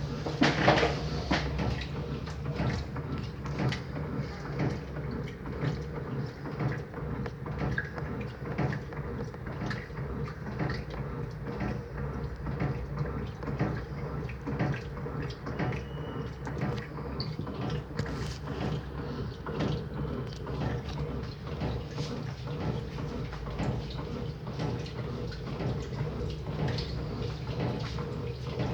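Electrolux LT09B top-loading washing machine running through its wash: a steady motor hum with many small irregular knocks and clatters, louder about half a second in.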